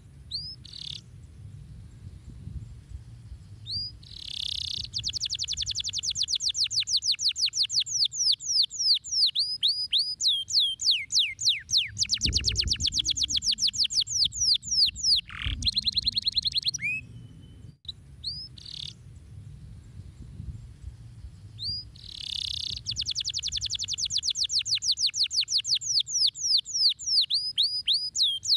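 Domestic canary singing: long, fast trills of repeated high notes that sweep downward, in phrases that speed up and change note. There is a short break about two-thirds of the way through, after which a similar run of phrases begins again. A faint low rumble lies underneath.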